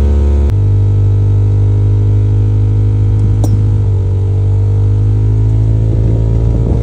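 A 1996 Acura Integra's 1.8-litre four-cylinder engine running steadily just after a cold start from eight years of sitting. The engine note shifts suddenly about half a second in and dips slightly around four seconds in.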